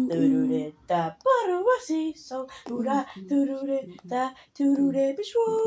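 A single voice singing short wordless syllables, unaccompanied, with one swooping, wavering note about a second and a half in.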